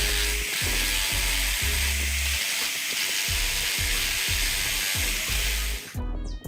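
A steady, loud hiss from restoration work, stopping abruptly about six seconds in, over background music with a regular heavy bass beat.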